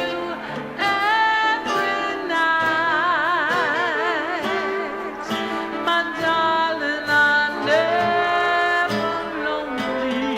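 A woman singing a 1920s–30s-style jazz song with instrumental accompaniment, holding long notes with a wide vibrato.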